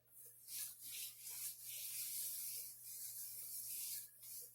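Hands rubbing styling gel into damp hair: a faint, uneven rubbing hiss with soft strokes.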